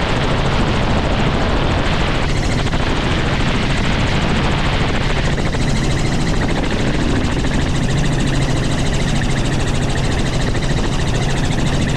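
Helicopter running steadily: dense, even rotor and engine noise with a constant low hum.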